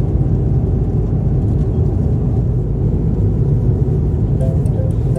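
Steady low rumble of a vehicle in motion, even and unbroken, with faint musical notes entering near the end.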